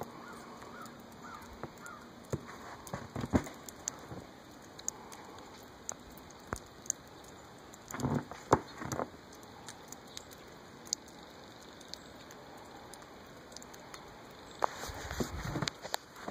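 Steady soft patter of wet snow and melt falling, with scattered sharp drips and taps and a few louder knocks now and then.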